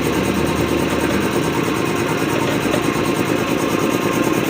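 5 hp reciprocating piston air compressor running steadily, its pump chugging with a fast, even rhythm.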